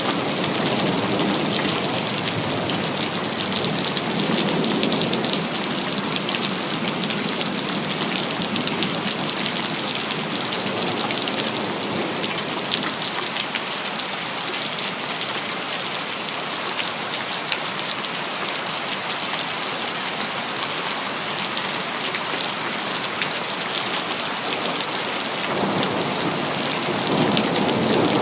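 Steady heavy rain hissing and pattering, with low rolls of thunder swelling near the start and again near the end.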